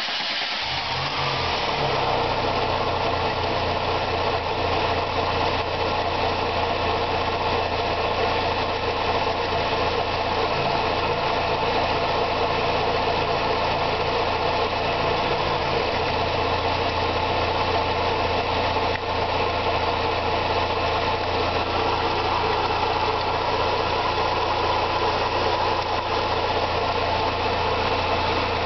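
Volkswagen Golf 2.0 eight-valve four-cylinder engine catching right at the start and then idling steadily. The owner says this engine doesn't run as well as it should.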